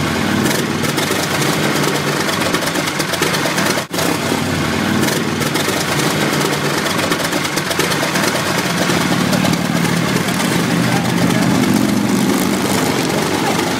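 The 1915 Hispano-Suiza's 18-litre V8 engine running steadily at low revs, with a momentary drop-out about four seconds in.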